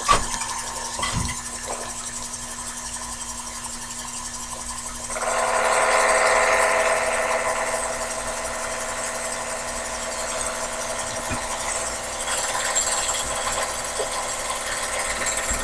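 Sherline mini lathe running with a steady motor hum while a light 20-thou cut is taken on a die-cast aluminium part. About five seconds in, a louder ringing whine from the cut sets in and eases off over the next few seconds.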